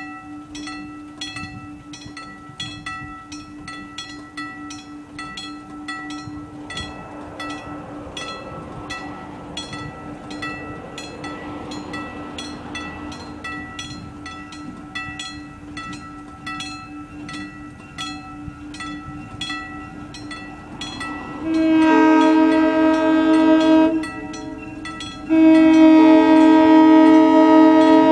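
Railroad grade-crossing bell ringing about twice a second. About 21 seconds in, the approaching locomotive's air horn sounds two long blasts, the second one louder: the horn of the lead engine, a former Southern Pacific NW-2 switcher.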